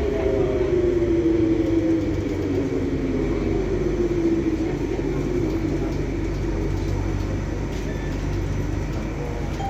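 Mitsubishi Crystal Mover LRT car's traction motor whine, several tones falling steadily in pitch as the train slows, over a low running rumble. The uploader notes the motor on this car, V35, sounds weird.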